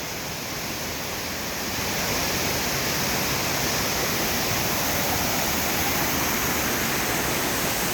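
A tall waterfall pouring steadily, a constant rushing of falling water that swells a little about two seconds in and then holds.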